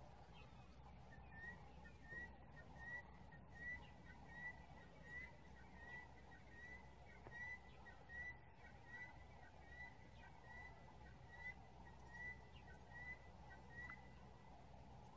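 A bird repeating a short, slightly rising whistled note, about one and a half to two a second, some twenty times in a row. It starts about a second in and stops about a second before the end. The calls are faint over a quiet background.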